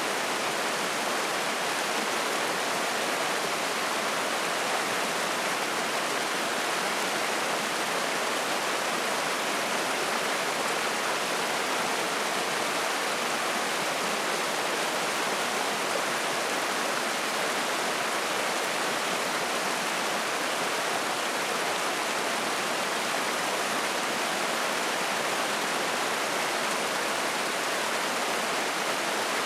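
A clear mountain stream of spring water rushing and splashing over rocks, a steady full hiss with no breaks.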